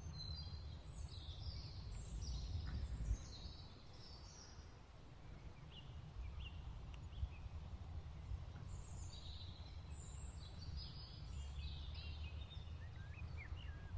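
Wild birds singing faintly in short, high chirping phrases, in two spells: one over the first four seconds or so and another from about eight seconds in, over a steady low rumble.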